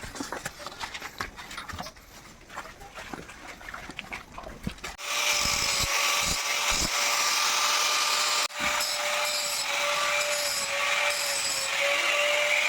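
Faint clicks and knocks, then a small motor starts about five seconds in and runs with a steady high whine over a hiss. It cuts out for an instant just after eight seconds and then runs on.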